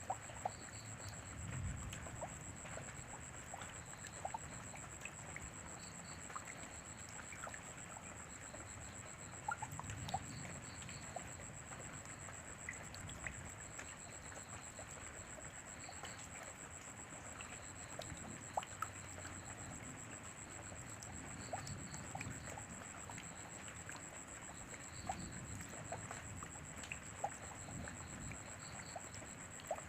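Steady rainfall with scattered individual drips, over a continuous high-pitched tone and faint short high chirps repeating every second or two.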